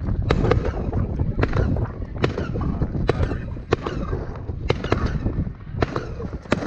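Fireworks shells bursting in quick, irregular succession, a dozen or so sharp bangs, over a steady low rumble.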